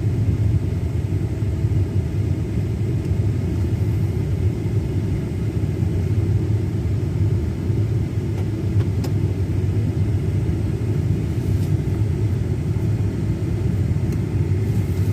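Steady rumble of a car driving, heard from inside the cabin.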